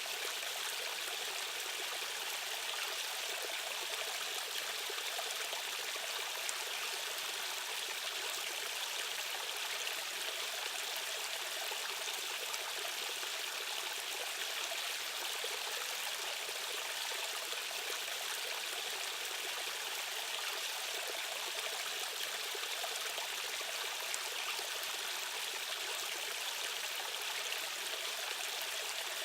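Rushing stream water running over rocks, a steady even rush of flowing current with no changes.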